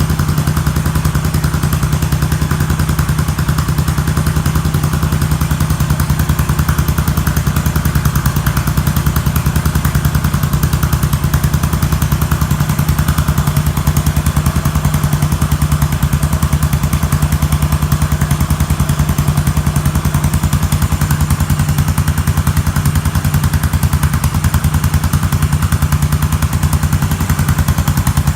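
Yamaha SR400's air-cooled single-cylinder four-stroke engine idling steadily, an even, fast pulse with no revving.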